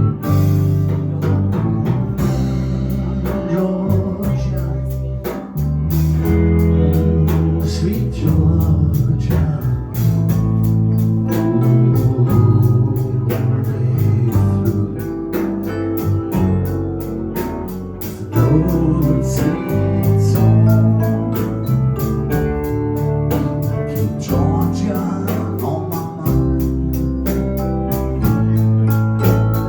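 A live blues band plays an instrumental passage with no singing: a steady bass line under a lead instrument, and drums keeping a regular beat.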